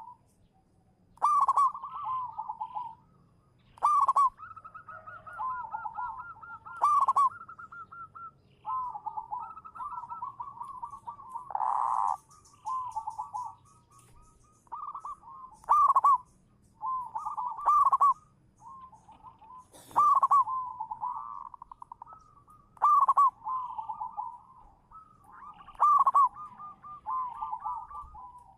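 Zebra doves (local perkutut) cooing in full song: trilled, bubbling coo phrases repeated every second or two, several calls overlapping at times.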